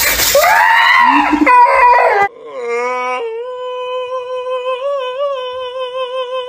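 Shower water spraying over a wet pet while it lets out a wavering cry, then, about two seconds in, a cat gives one long, steady, drawn-out yowl with its mouth wide open.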